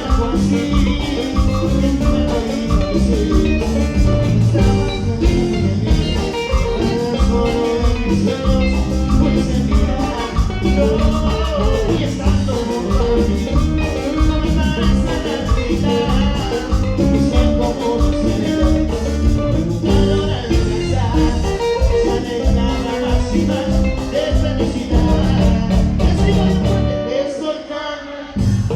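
Latin dance music from a band, with a steady beat and some singing. It drops away briefly near the end and then comes straight back in.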